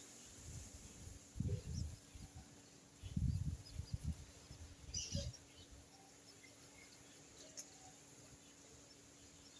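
Low rumbling thumps in three spells, the loudest about a second and a half and three seconds in, over a faint steady hum. A few faint, high bird chirps come about five seconds in.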